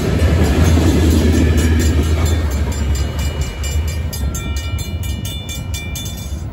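Freight cars rumbling over the rails, fading as the end of the train passes. This leaves the crossing's Safetran hybrid bell ringing in quick even strokes, about four a second.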